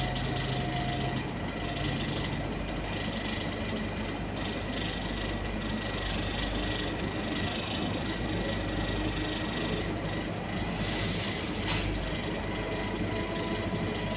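Scania K230UB city bus and its five-cylinder diesel running as it drives, a steady drone of engine and road noise with a thin steady high whine. A single sharp click sounds near the end.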